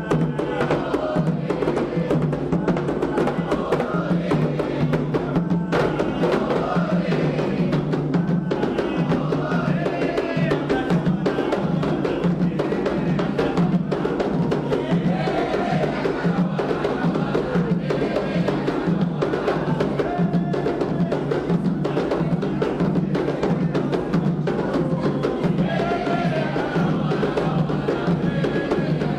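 Candomblé ritual music: hand drums beating a steady, fast rhythm with voices singing over them.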